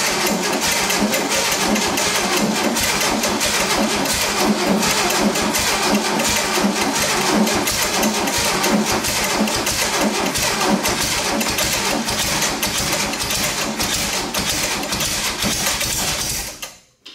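Air-cooled Volkswagen flat-four engine running steadily on choke just after being brought to life following years of sitting. The sound cuts off abruptly near the end.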